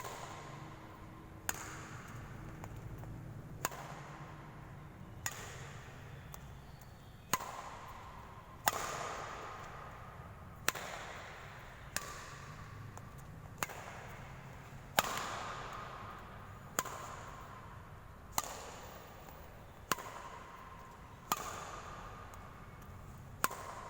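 Badminton racket strings striking a shuttlecock again and again, a sharp crack about every one and a half to two seconds, each one echoing briefly.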